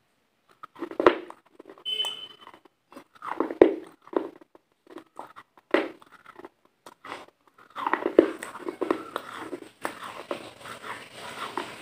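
Close-miked chewing and crunching of pizza at the mouth, in irregular bites with a few louder crunches. About eight seconds in, a steadier background noise comes in under the chewing.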